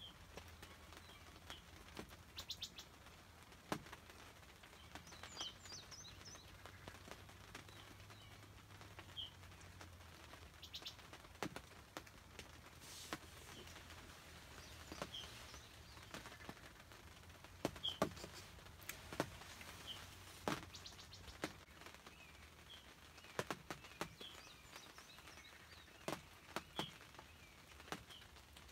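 Faint songbirds calling: a short high chirp repeated every second or two, with a couple of quick trills, among scattered sharp ticks.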